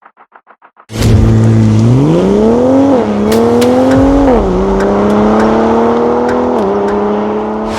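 BMW XM's twin-turbo V8 with an H.Drive titanium exhaust accelerating hard, starting about a second in: the note climbs, drops twice on upshifts, then pulls more slowly in a higher gear. A few sharp cracks come through during the run.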